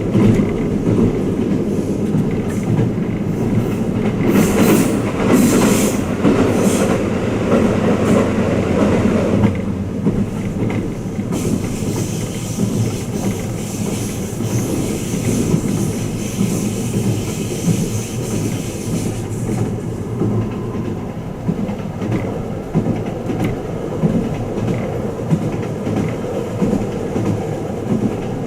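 Twilight Express Mizukaze train running at speed, heard from inside a passenger compartment: a steady rumble of the wheels on the rails. It is louder for the first ten seconds or so, with hissing bursts about four to seven seconds in, then settles to a quieter run.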